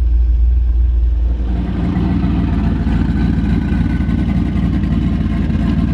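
Turbocharged LS V8 engine running through mufflers as the car is driven slowly. A deep low drone gives way about a second and a half in to a stronger, rougher engine note.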